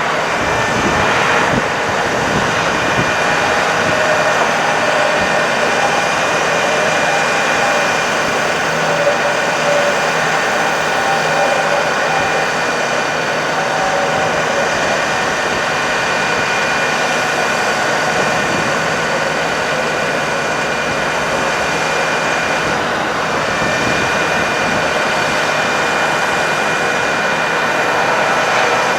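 Ford F-550 bucket truck's engine running with the PTO engaged, its hydraulic pump whining steadily as it powers the Altec AT37G boom.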